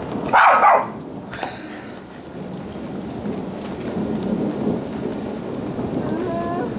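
Steady heavy rain with a rolling rumble of thunder that swells from about two seconds in. A short loud sound comes about half a second in.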